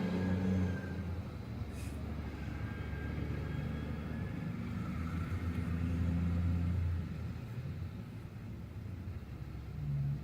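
Low rumble of motor vehicle engines or road traffic, swelling a little and then easing off about seven seconds in.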